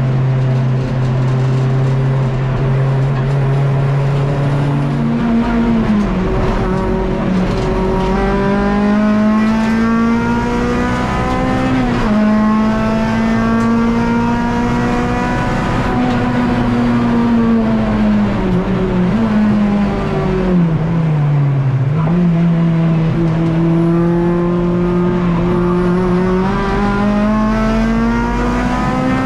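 Race car engine heard onboard, running hard at high revs with no let-up. The pitch holds, then jumps up about five seconds in, and sags and climbs again several times as the car is driven through corners and gears. The source is a Honda K24 four-cylinder in a Civic EG race car.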